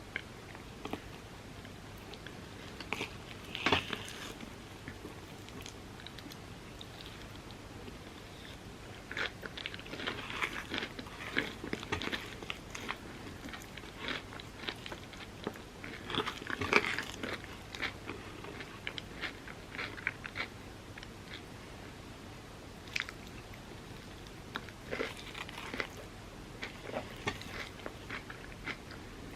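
Eating sounds: bites crunching through a hardened chocolate and pistachio kataifi topping on overnight oats, with chewing. They come in irregular bursts of crisp crackles, loudest about four seconds in and again about seventeen seconds in.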